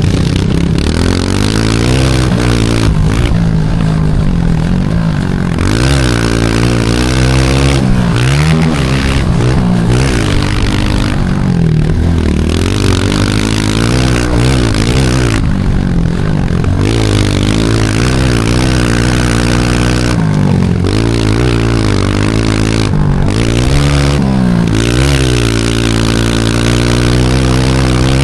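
Small pit bike engine being ridden hard, revving up and down over and over as the throttle is opened and shut, heard close up. A loud rushing noise comes and goes over it.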